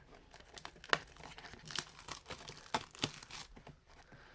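Plastic shrink-wrap crinkling and tearing as a sealed hobby box of trading cards is unwrapped and opened, with irregular sharp crackles.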